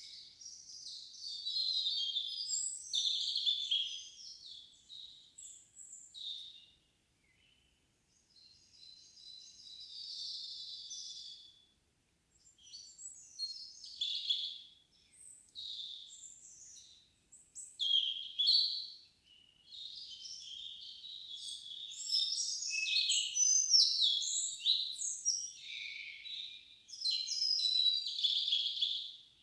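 Songbirds singing in a calm summer forest at evening: phrases of high, fast, twittering song a few seconds long, with brief gaps between them and no wind.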